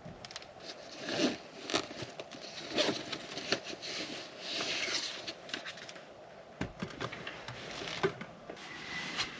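Irregular rustling and crinkling with scattered sharp clicks and knocks, like things being handled close by in a small enclosed space.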